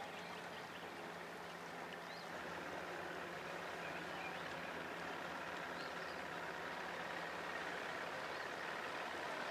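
Motorboat engines out on the water: a steady low hum under a wash of engine and water noise that grows slowly louder from about two seconds in as boats approach.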